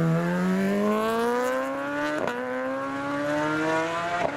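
Superbike racing motorcycle accelerating hard up a hill-climb course, its engine pitch rising steadily with a quick upshift about two seconds in and another near the end.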